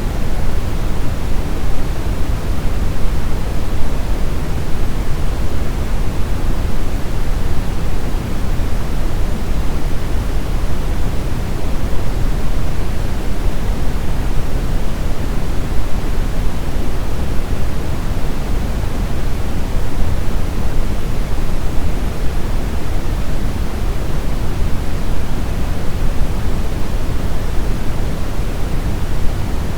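Steady brown noise: an even, unchanging rush of synthetic noise weighted heavily toward the low end, deep and rumbling with the highs rolled off.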